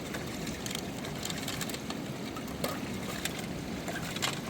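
Steady rushing of a fast river, with scattered short sharp clicks over it.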